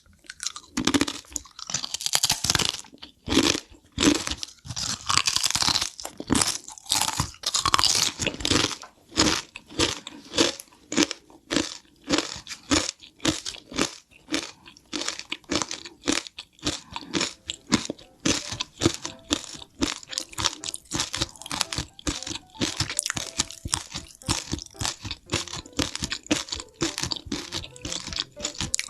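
Close-miked crunching and chewing of a crisp tortilla chip, the Paqui One Chip Challenge chip: rapid crisp crunches several times a second, heaviest in the first few seconds, with soft music behind.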